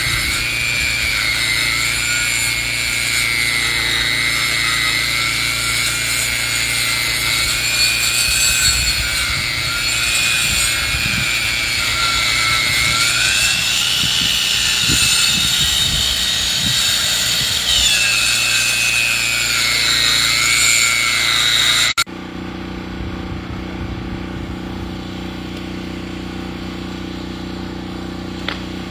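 A powered saw cutting through wood while milling a log, with a high whine that wavers and rises in pitch as it cuts. About 22 seconds in, it cuts off abruptly and gives way to a quieter, steady low engine hum.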